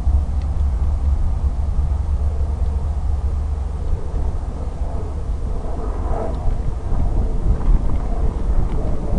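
Strong wind buffeting the microphone: a steady low rumble with a rough hiss above it.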